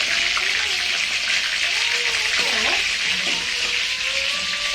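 Chicken pieces deep frying in hot oil, a steady sizzle that goes on unbroken.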